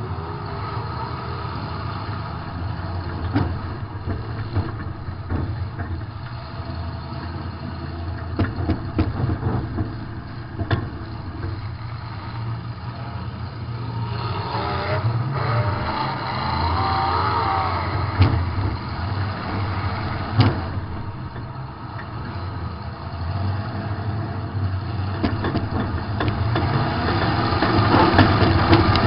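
Demolition derby car's engine running and revving, heard from inside the car, with a few short sharp knocks along the way; the engine gets louder near the end.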